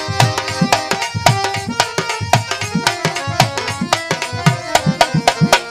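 Instrumental interlude of a Bengali qawwali: fast tabla drumming under a melody instrument holding steady notes, with no singing.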